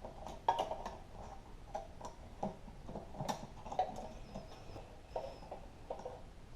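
Irregular light metallic clicks and ticks of a wrench turning a hard-to-reach bolt on a small engine, a few per second.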